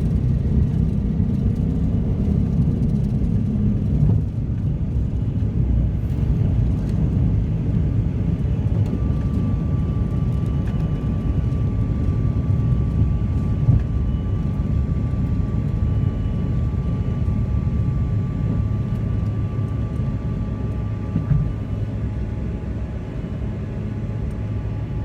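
Airliner cabin noise during takeoff and climb: a loud, steady rumble of engines and airflow that eases slightly about four seconds in. A faint high steady whine runs through the middle.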